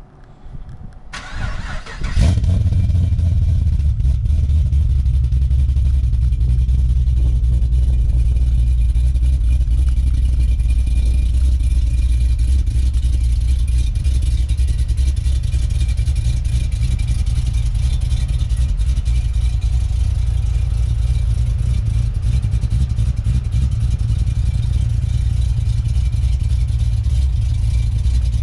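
Cammed 6.2-litre LS3 V8 in a Chevy SS being cold started through long-tube headers and a Magnaflow cat-back exhaust: the starter cranks briefly, the engine catches loudly about two seconds in, then runs at a steady, loud cold idle.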